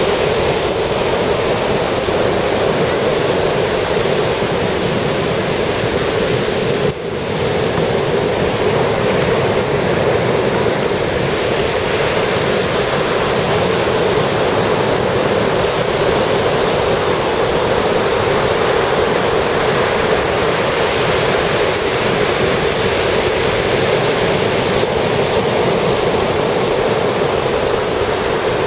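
Ocean surf breaking and washing up a sandy beach: a steady, continuous rush of waves, with a brief drop in level about seven seconds in.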